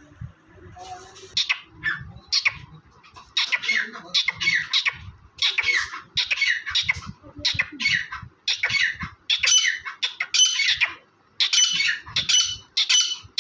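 Partridge (teetar) calling over and over in a long series of short, harsh calls, about one to two a second, growing louder and clearer in pitch as the series goes on.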